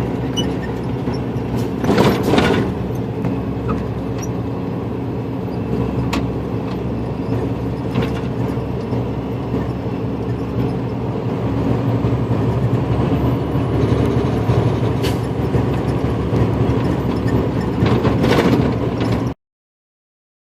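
Truck engine running steadily inside the cab at highway speed, with road noise and a few sharp knocks or rattles. The sound cuts off suddenly near the end.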